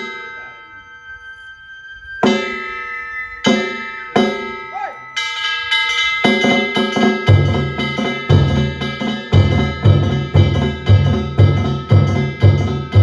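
Danjiri narimono ensemble: a few separate strikes on ringing metal gongs (kane), then from about five seconds in the gongs settle into a steady rhythm, and at about seven seconds a drum joins, beating about twice a second.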